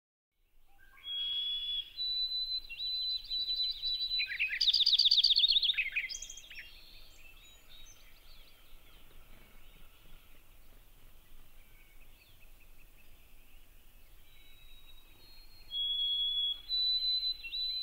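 Birds singing: high, clear whistled notes and chirps, then a loud rapid trill about five seconds in, quieter twittering after it, and clear high notes again near the end.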